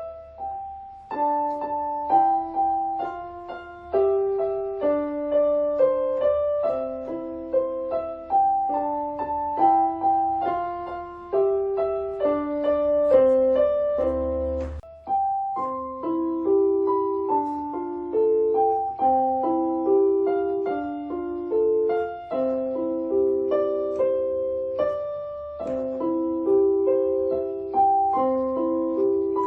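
Solo piano music: a melody of evenly paced single notes over a lower accompaniment. A faint low hum under it drops away about halfway through.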